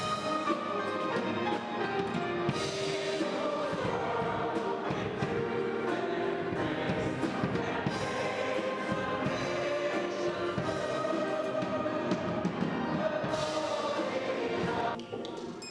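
Choir singing with musical accompaniment, the music sustained with moving chords; it dips briefly near the end and comes back in.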